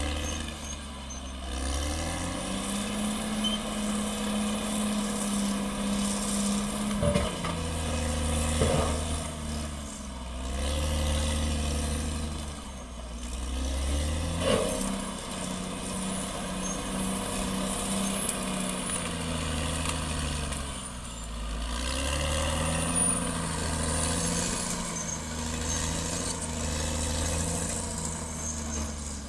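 CAT D6R XL bulldozer's diesel engine working under load, the engine note rising and holding for several seconds, then falling back, three times over. A few sharp metallic knocks come in the middle.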